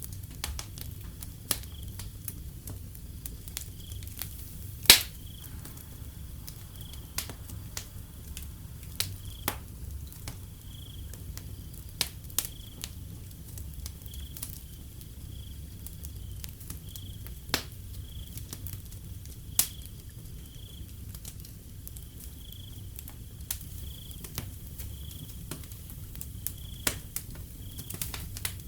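Wood fire crackling with irregular sharp pops, the loudest about five seconds in, over a low steady rumble. A cricket chirps steadily behind it at a high pitch, about once a second.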